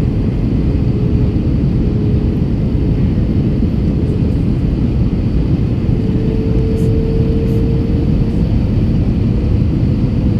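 Airbus A321 cabin noise in flight: a steady rush of jet engines and airflow, with a faint steady hum that strengthens for a couple of seconds about six seconds in.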